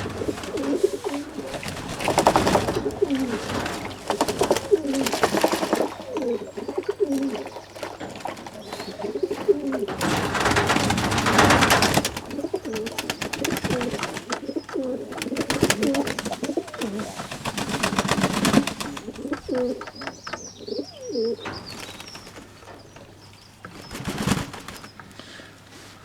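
Fantail pigeons cooing, many low, rolling coos overlapping one another, with several louder rushes of noise mixed in now and then.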